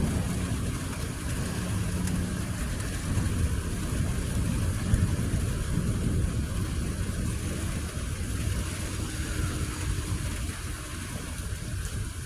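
Thunderstorm sounds: steady rain hiss over a continuous low rumble.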